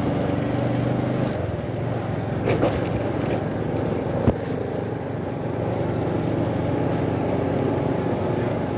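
Motorcycle engine running as the bike rides through street traffic, its steady note changing about a second in. A brief sharp knock comes about four seconds in.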